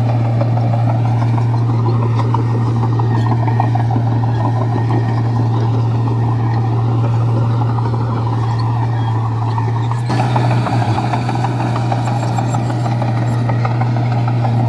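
Komatsu bulldozer's diesel engine running steadily under work, a constant low drone with clattering mechanical noise over it, with a brief shift about ten seconds in.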